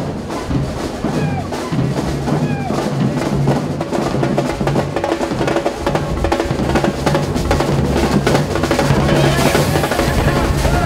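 Drums playing a busy rhythm: snare rolls and rimshots over bass drum, growing denser and louder through the second half.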